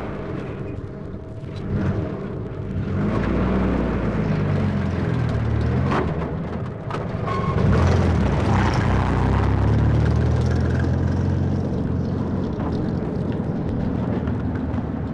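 Heavy vehicle engine running, swelling in the first few seconds, its pitch rising and falling, with a few sharp metallic clanks.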